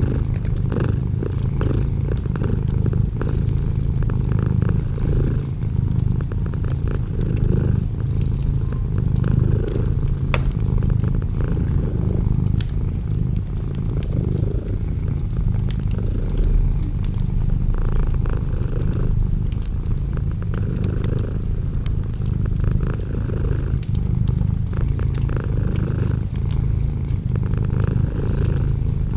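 Domestic cat purring close up, a steady low rumble that pulses evenly with its breathing.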